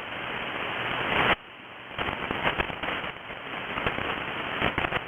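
Band noise and lightning static crashes from an AM ham radio receiver: a steady hiss peppered with irregular crackles and pops. The hiss drops suddenly about a second and a half in, then the crashes keep coming.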